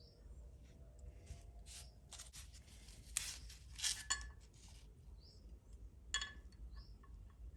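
Small parts and tools of an RC excavator model kit being handled during assembly: scattered light clicks, scrapes and rustles, busiest about three to four seconds in, with a few short squeaks.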